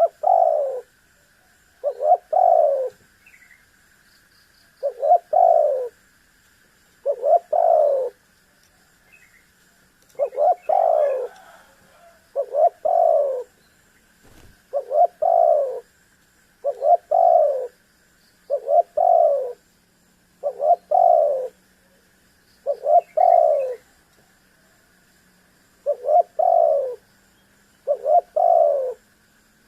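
Spotted dove (tekukur) cooing: a repeated multi-note coo phrase of under a second, given about thirteen times at intervals of roughly two seconds.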